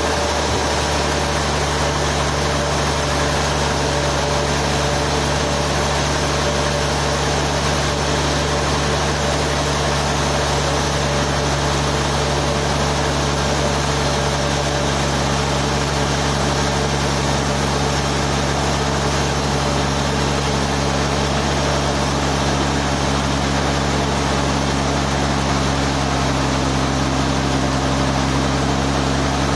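Sawmill machinery running steadily: an engine hum with a constant rushing noise, its pitch shifting slightly about a second in and again near the end.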